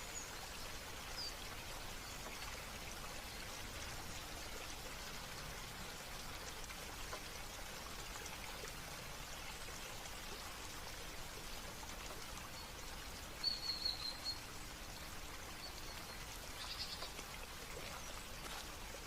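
Steady trickle of running water with a few short, high bird chirps; a brief trilled call sounds about two-thirds of the way through.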